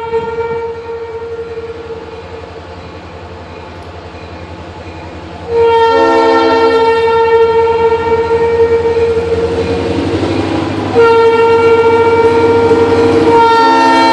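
Diesel locomotive's air horn sounding long blasts over the steady rumble of the locomotive: one blast fades about a second in, a long one runs from about five and a half seconds to ten, and another starts about eleven seconds in and carries on.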